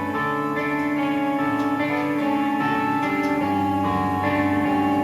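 A live band playing, with guitars ringing out held chords that change every second or so.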